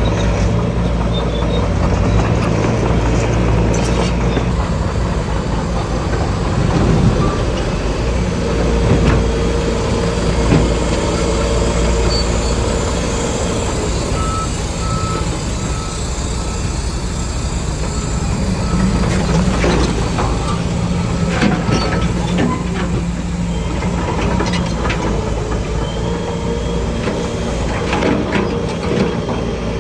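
Diesel engines of heavy earthmoving machinery running steadily, with a dump truck's reversing beeper starting about halfway through as a row of short, evenly spaced beeps at one pitch. A few sharp clanks come near the end.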